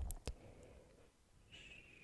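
ASMR mouth sounds close to the microphone: two sharp mouth clicks just after the start, then a faint high squeak, falling slightly in pitch, near the end.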